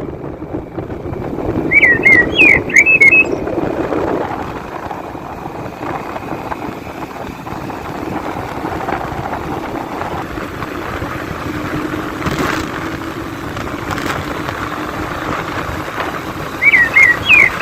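A small bird's short call phrase of several quick chirps, heard twice about fifteen seconds apart, over a steady low background rumble.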